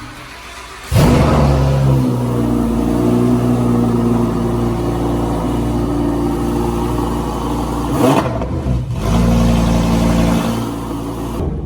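Car engine running loudly at a steady speed, starting abruptly about a second in, dropping briefly about eight seconds in and then picking up again at the same steady pitch.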